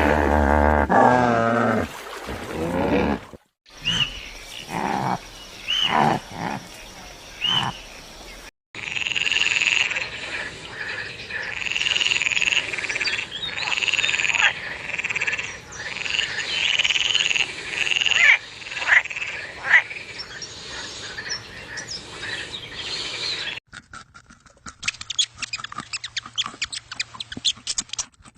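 A string of animal-call clips cut one after another. A loud pitched animal call comes first, then a few short separate calls. Most of the span is a dense chorus of frogs croaking, followed near the end by a fast run of clicking calls.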